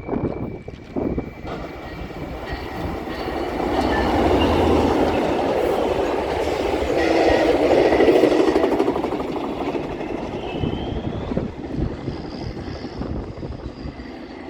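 Metrolink commuter train passing on the tracks, its rumble building to a peak about eight seconds in and then fading, with faint high squealing near the end.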